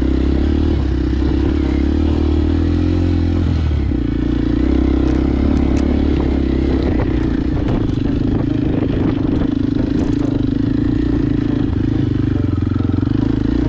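Motorcycle engine running steadily under way, with its note shifting about three seconds in, and scattered knocks and rattles.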